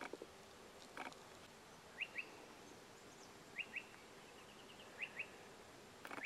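A small bird calling in short, high paired chirps, repeated every second and a half or so over a faint steady hiss; a single brief scuff or rustle about a second in.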